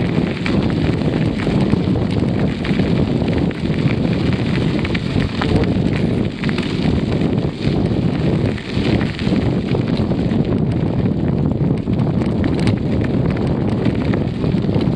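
Wind buffeting the microphone of a camera riding along on a moving bicycle: a steady, loud rumble.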